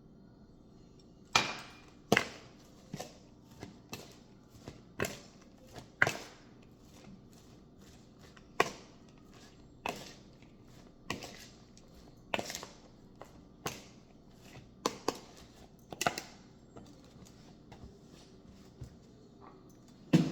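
Knife chopping on a cutting board in separate, irregular strokes, about one or two a second, getting lighter near the end.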